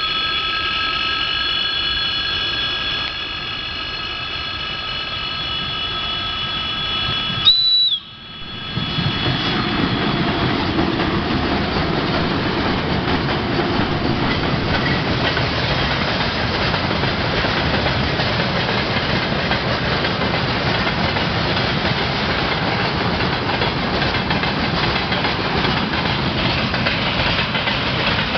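VL11M electric locomotive's piercing whistle held for about seven seconds, ending in a brief higher note and cutting off sudden. Then the train passes with a steady rumble and rattle of wheels on the rails from the freight wagons.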